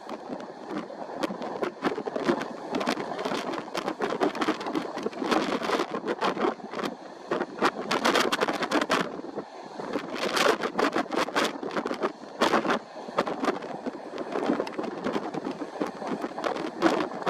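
Typhoon wind gusting and buffeting the microphone, a constant rough rush crackling with sharp buffets. It swells into stronger gusts about eight and ten seconds in.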